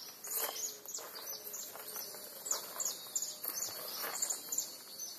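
Birds chirping: many short, high chirps, each sliding downward, repeating one after another.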